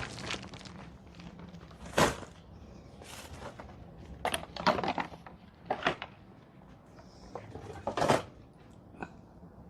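Gear and supplies being handled and set down while unpacking: a series of knocks and clatters, the loudest about two seconds in, with more around five and eight seconds in, over a faint steady hum.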